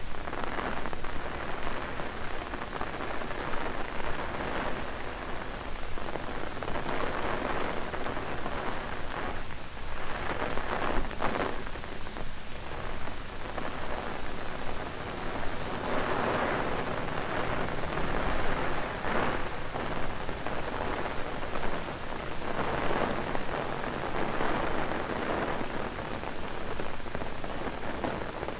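Heavy rain pattering on an umbrella, swelling and easing every few seconds. A steady high-pitched cicada drone runs underneath.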